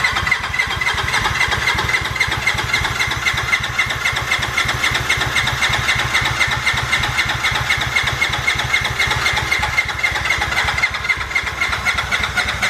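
Polaris RZR 1000's parallel-twin engine being turned over on its starter without firing, a steady, fast-pulsing crank with a constant starter whine. This cranking primes the freshly built motor with oil before its first start.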